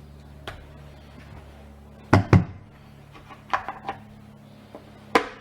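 A few sharp knocks and clacks of hard objects being handled, two loud ones close together about two seconds in, a small cluster around three and a half seconds, and a single loud one near the end, over a faint steady low hum.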